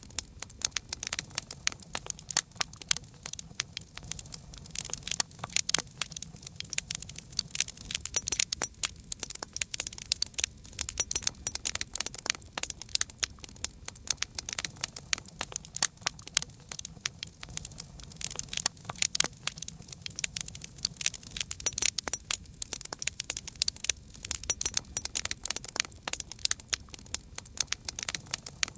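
Campfire crackling: dense, irregular pops and snaps of burning wood, over a soft low rumble of the flames.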